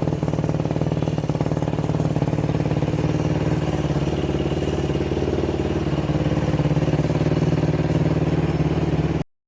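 Carbureted Yamaha YFZ450 four-stroke single-cylinder ATV engine running steadily at a constant speed. It cuts off suddenly near the end.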